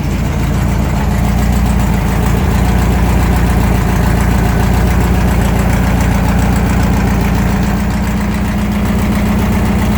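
1972 VW Beetle's air-cooled flat-four engine idling steadily on the choke while cold, running smooth.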